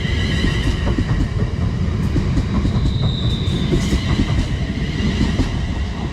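Class 350 Desiro electric multiple unit pulling out of a platform: a steady low rumble with scattered clicks of wheels over rail joints, and a brief high squeal about three seconds in.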